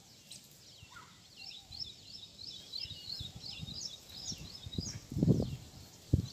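Small birds chirping, a quick run of high chirps in the middle, over low rustling. Near the end comes a loud dull thump, then a short knock.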